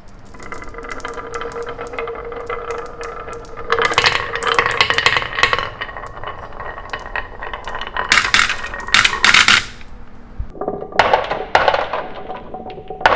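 Small hard toy pieces rattling, clinking and scraping, with two spells of dense clatter about four and eight seconds in and more near the end.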